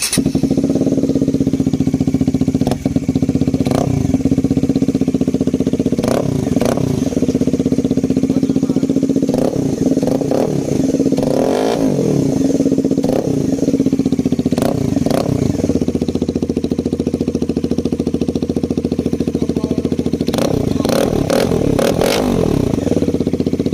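Bajaj Dominar 250 BS6's single-cylinder engine running with the stock silencer removed, exhaust coming straight out of the bend pipe. It idles steadily, with a dozen or so short throttle blips scattered through, several close together in the middle and again near the end.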